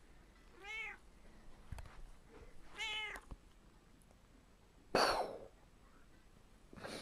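A cat meowing twice, each a short call that rises and falls in pitch. About five seconds in comes a louder, short noisy burst that falls in pitch.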